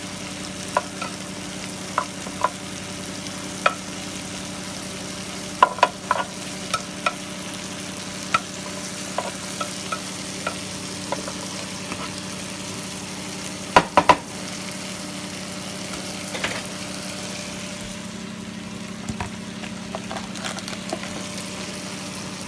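Porterhouse steak and Brussels sprouts sizzling in a ribbed grill pan, with scattered sharp pops of spattering fat and a cluster of louder pops about 14 seconds in.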